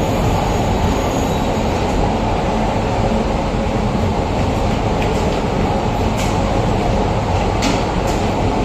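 Passenger coaches of an arriving Indian Railways express train rolling past, a loud steady rumble of wheels on rail. A few short sharp clicks sound in the second half.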